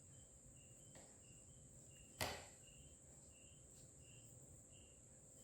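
Near silence with crickets chirping faintly in short, evenly spaced chirps over a steady high hiss; one sharp click about two seconds in.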